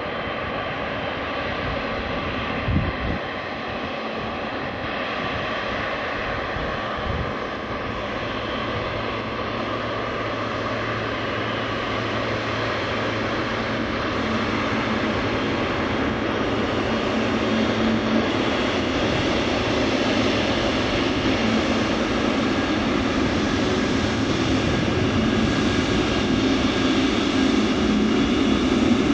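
Boeing 777-300ER's GE90-115B turbofan engines running with a steady whine, growing gradually louder. Two short low thumps come about three and seven seconds in.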